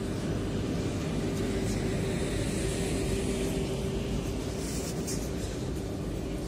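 Electric commuter train at the station, giving a steady hum with one held tone over a low rumble.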